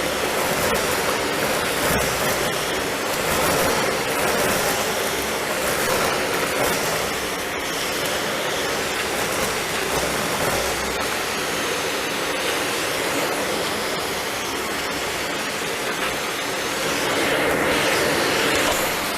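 Philips vacuum cleaner running steadily under suction, a steady rushing hum with a few faint clicks as debris is drawn in. Near the end the airflow grows louder and higher.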